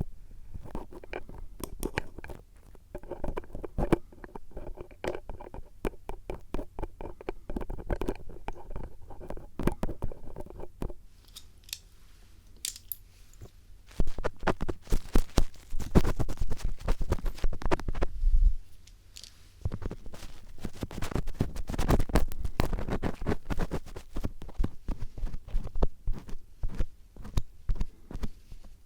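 Metal star-tip screwdriver scraping and tapping against a microphone in close-up ear-cleaning ASMR: dense, rapid scratching and crunching clicks. It grows louder about halfway through.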